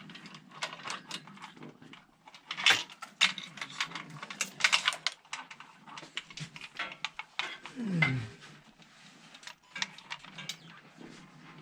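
Engine hoist chain clinking and rattling in irregular metallic clicks as it is pulled through and hooked snug. A short falling tone sounds about eight seconds in.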